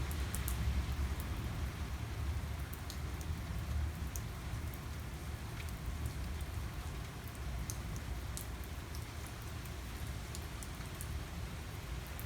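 Heavy rain falling steadily, with scattered individual drops ticking close by and a low rumble underneath, strongest in the first second.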